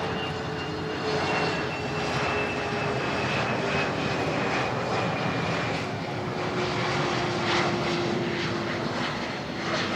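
COMAC C919 airliner's turbofan engines during a display flypast: a steady jet rush with a faint whine that slowly falls in pitch as the aircraft moves away.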